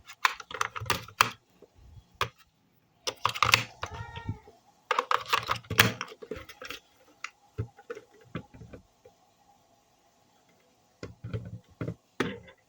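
Plastic clicks and taps of a small battery compartment being handled and small batteries being fitted, in irregular clusters with a quieter gap a few seconds before the end. A brief squeak comes about four seconds in.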